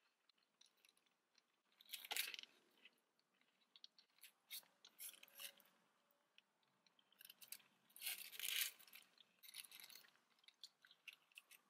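Faint close-up chewing and biting of a breakfast sandwich, with small wet clicks and the paper wrapper crinkling; louder bursts come about two seconds in and again around eight seconds in.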